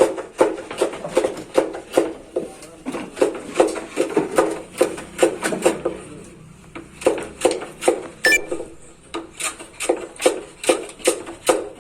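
Rapid series of sharp knocks, about two to three a second, with a short let-up a little past the middle.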